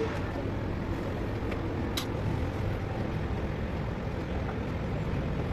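Diesel truck engine running steadily, with a single sharp click about two seconds in.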